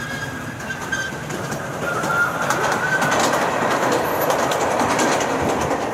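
Amusement-park ride train running along its track: rolling wheel-and-rail noise with rapid clicks, growing louder about two seconds in and easing off near the end.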